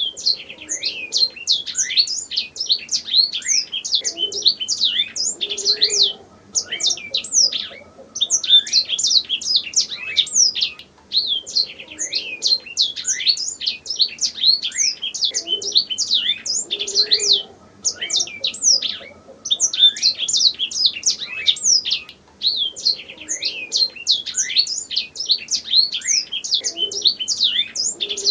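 Domestic canary singing: long runs of rapid, high chirps and trills, broken by short pauses every few seconds.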